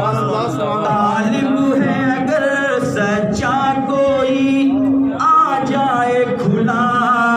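Male voice singing a melodic Urdu devotional song, with held and ornamented notes and no clear instruments.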